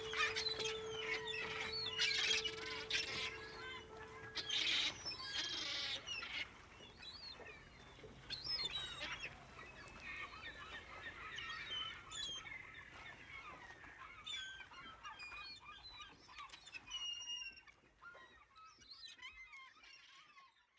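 Many wild birds calling, with honking calls among quick chirps, busiest in the first few seconds and thinning and fading out near the end.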